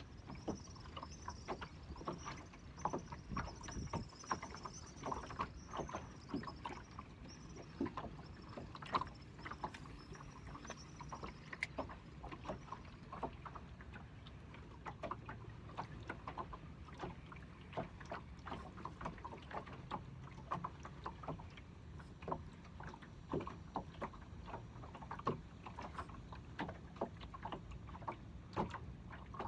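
Small fishing boat rocking at sea: irregular knocks and slaps of water against the hull over a low steady rumble. A repeated high chirping runs for about the first twelve seconds.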